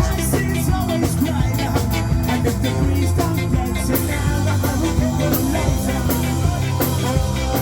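A rock band playing live in rehearsal: drum kit, bass and other instruments at full volume, with cymbal crashes about once a second in the later part.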